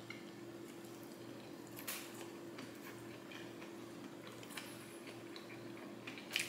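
Faint closed-mouth chewing of a sushi roll with pickled ginger: a few soft, wet clicks and crackles spread through it, over a low steady room hum.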